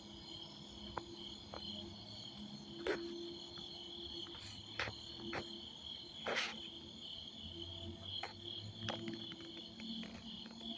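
Night insects, crickets, chirping steadily over a low droning hum that swells and fades, with a few scattered clicks. The hum is a night-time whirr of unknown origin that the recorder cannot place.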